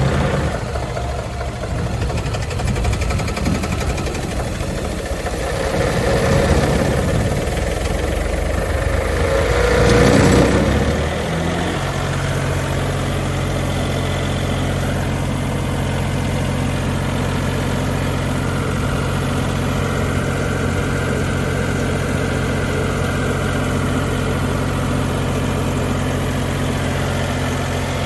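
Atlas Copco CPS185 towable air compressor's diesel engine running, uneven and swelling in level for about the first ten seconds, then settling about eleven seconds in into a steady, even idle.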